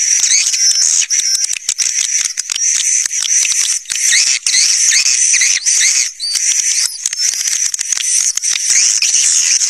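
A dense flock of swiftlets twittering: many rapid, high chirps overlapping without a break. It is the swiftlet caller sound used to draw swiftlets into a nesting house.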